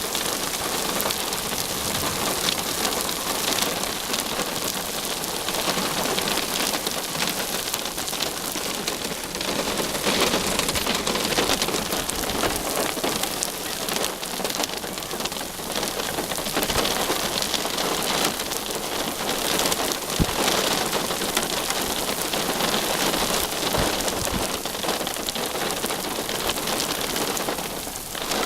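Heavy thunderstorm rain pelting down steadily as a dense patter of drops.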